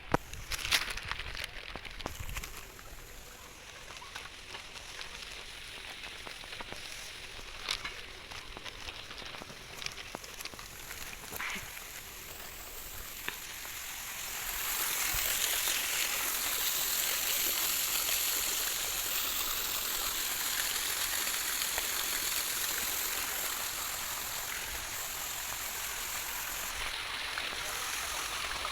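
Flowing stream water rushing steadily, growing louder about halfway through, with scattered clicks and knocks in the quieter first half.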